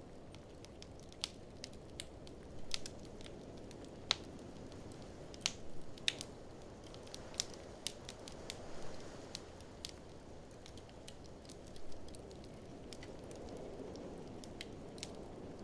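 Open wood fire crackling, with many irregular sharp pops and snaps over a steady low rush of blizzard wind that swells gently a couple of times.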